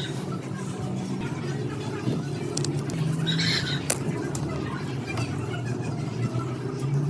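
Yamaha ET950 generator's small two-stroke, air-cooled engine running steadily.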